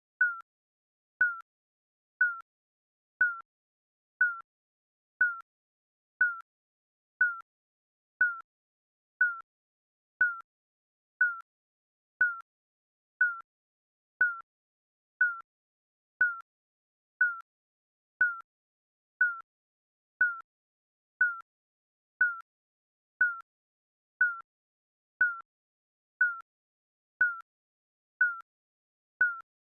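Digital countdown timer beep sounding once a second to mark each passing second: a short, high electronic blip that dips slightly in pitch and quickly dies away, with silence between beeps.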